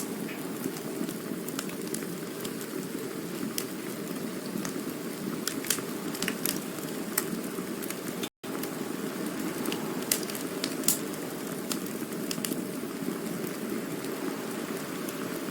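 Campfire burning, with irregular sharp crackles and pops over a steady low rush. The sound cuts out completely for a fraction of a second a little past the middle.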